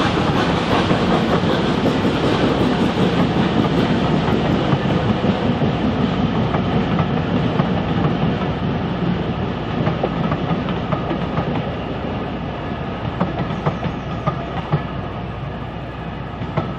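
Rake of wooden-bodied railway coaches rolling past behind a steam train, wheels clicking over the rail joints. The sound slowly fades as the train draws away, with a few sharper wheel clicks near the end.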